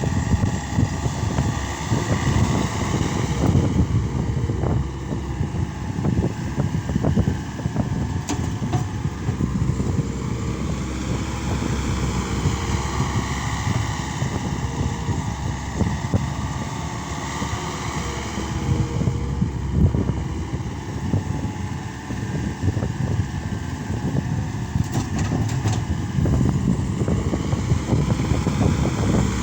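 Case SR200 skid steer loader's engine running under working load, its pitch rising and falling again and again as it revs up and settles back.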